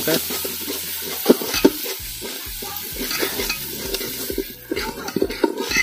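Onions with chilli, garlic and ginger paste sizzling in oil in an aluminium handi while a long metal spoon stirs them, scraping and knocking against the pot's sides and bottom at an uneven pace.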